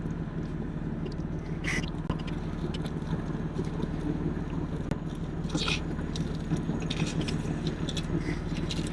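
A man chewing a first bite of birria pizza, with a few short crunching clicks, over a steady low hum.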